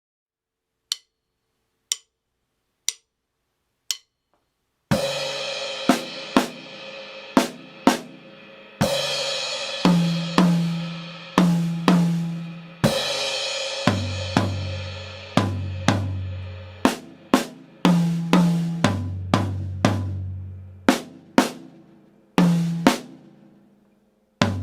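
Four count-in clicks one second apart, then a drum kit playing a slow exercise at 60 beats per minute. Cymbal crashes every four seconds, with strokes moving between the snare and two ringing toms, one higher and one lower.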